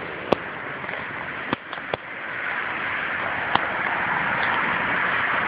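A car approaching on a nearby road, its tyre noise rising steadily in loudness. A few sharp clicks and taps of the phone being handled come in the first few seconds.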